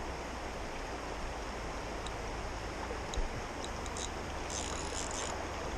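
Steady rush of creek water flowing, with a soft thump about three seconds in.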